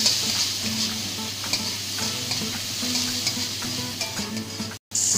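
Chopped garlic, onion and sweet corn sizzling steadily in hot oil in a metal kadhai, with a metal spatula stirring and scraping the pan in quick repeated strokes. The sound cuts out for an instant near the end, then the sizzle comes back louder.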